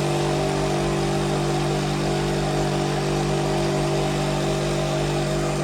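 Car engine idling at a steady, unchanging speed.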